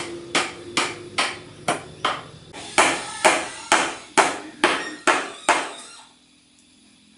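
A tool struck hard again and again, about two blows a second, each with a short ring, about a dozen blows in all; the blows stop about six seconds in.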